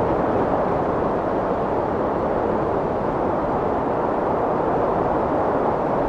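Strong wind blowing as a steady, even rush of noise, full in the low and middle range, with no gusts or breaks.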